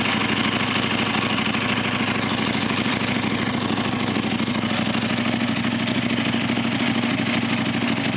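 KTM RC8's V-twin engine idling steadily through a full Akrapovic titanium exhaust system, with the dB killer still fitted.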